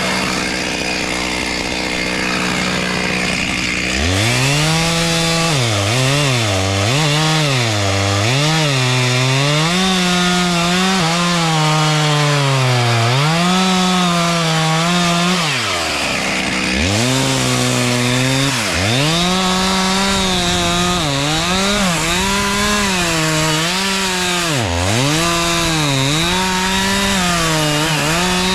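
Two-stroke chainsaw, running near idle for the first few seconds and then revved hard. Its engine note rises and sags again and again as it cuts, dropping sharply back toward idle twice.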